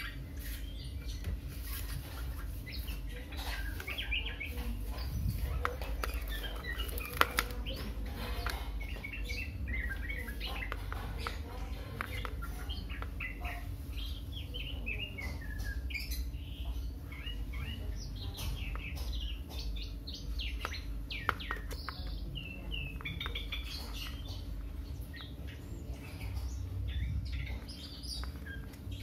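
Small birds chirping again and again in short, quick calls, with a few sharp clicks from plastic lamp parts and wires being handled, over a low steady rumble.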